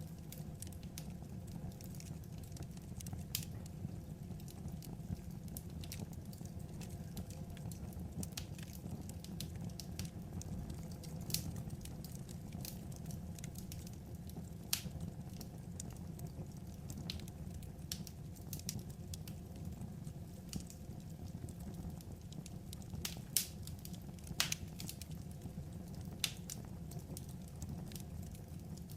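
Wood fire crackling: irregular pops and snaps over a steady low rumble.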